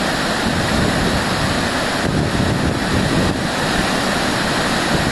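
Shivanasamudra Falls, a large waterfall, heard as a loud, steady rush of falling water. Wind buffets the microphone, most heavily around the middle.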